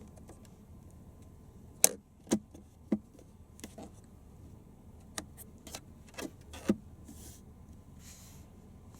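A series of about eight sharp clicks and knocks, irregularly spaced over five seconds, followed by two soft rustles.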